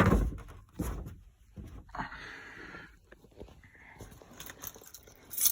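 Handling noises inside a vehicle cab: a sharp thump at the start and another about a second in, then rustling and light knocks, with a brief clatter near the end.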